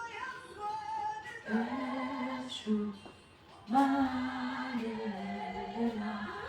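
A voice singing a slow melody in long held notes, with little or no accompaniment and a short break about three seconds in.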